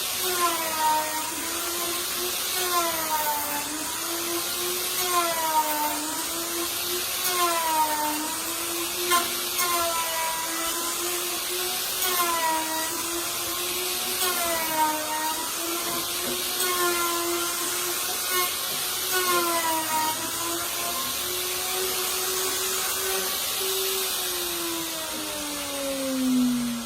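Wood router planing a board on a homemade rail jig. The motor whine sags in pitch and recovers every two seconds or so as the bit bites on each pass. Near the end the router is switched off and winds down in a falling whine.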